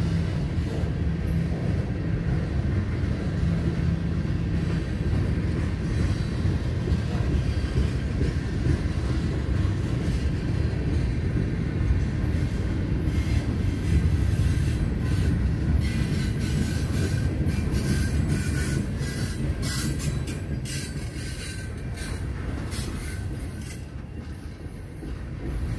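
Freight cars rolling past: a steady low rumble of steel wheels on rail. Through the middle there is a run of sharp clicks and clacks, and the sound dips briefly quieter near the end.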